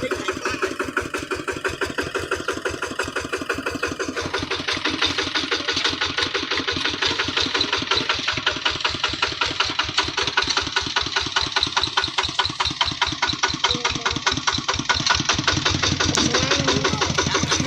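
Kubota RT155 single-cylinder diesel engine on a two-wheel hand tractor, running with a steady, fast chugging beat. About four seconds in it gets louder and brighter.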